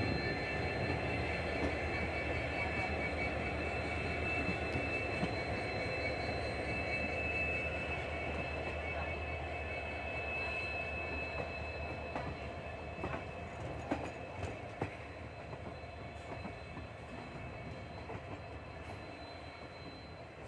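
Indian express train passenger coach pulling slowly out of a station: a steady wheel and rail rumble with a high steady squeal over it, and a few sharp clicks over rail joints about two-thirds of the way through, slowly getting quieter.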